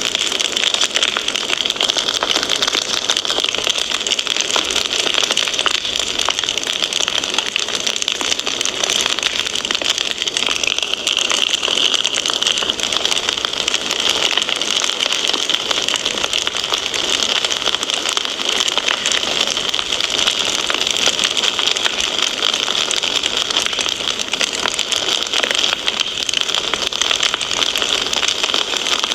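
Fireplace fire crackling steadily: a dense run of fast small pops over a continuous hiss.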